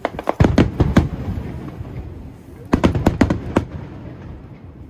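Aerial fireworks shells bursting in two quick volleys of sharp bangs, one at the start and another about three seconds in, with a rumbling echo trailing between them.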